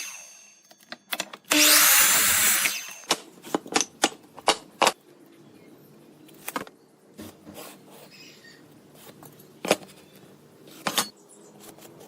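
A handheld power tool runs in one short burst of about a second. It is followed by a quick run of sharp knocks and clicks, then a few scattered knocks, as wood and tools are handled.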